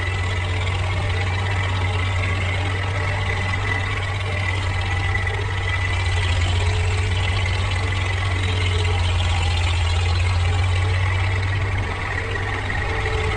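Tractor engine running steadily with a deep low drone and a thin high whine over it, swelling a little about halfway through and easing back near the end.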